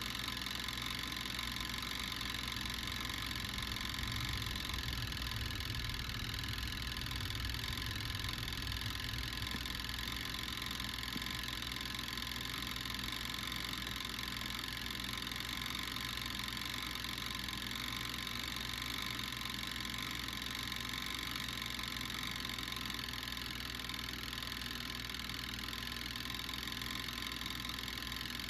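Steady mechanical hum with several faint, even whining tones, a little fuller in the low range for a few seconds early on, with no crackle or sizzle standing out.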